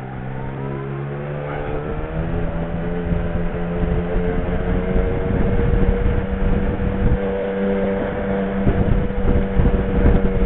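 Motorcycle engine rising in pitch as it pulls away, then running at a steady speed, with wind rumble on the microphone.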